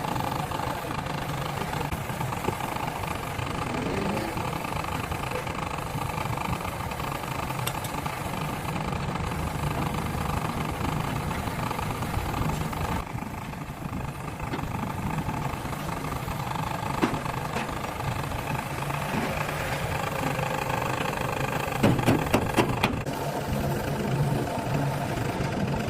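Motor vehicle engine idling steadily, with a short cluster of sharp knocks about 22 seconds in.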